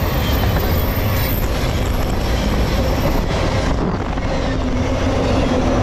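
CSX freight train's boxcars and intermodal container cars rolling past close by: a steady, loud rumble of steel wheels on rail.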